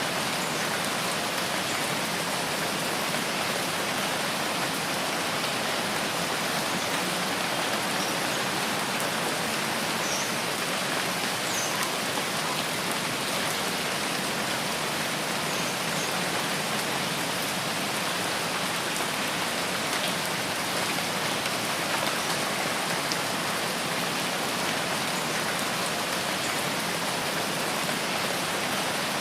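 Steady rainforest rain, an even hiss of falling drops that does not let up.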